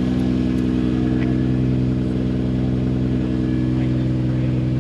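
Car engine idling steadily, with an even low pulse and no revving.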